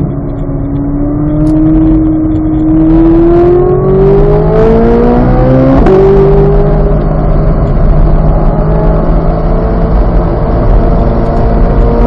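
2023 Chevrolet Corvette Z06's flat-plane-crank V8 pulling hard under acceleration. Its pitch rises steadily until an upshift about six seconds in drops it, then it climbs slowly again.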